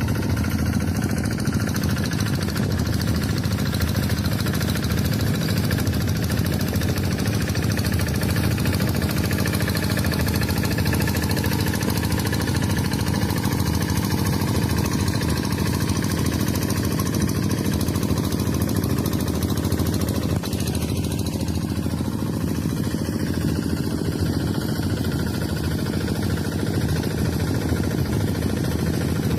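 Engine of a rice-harvesting tractor running steadily, with an even, unchanging drone and no change in speed.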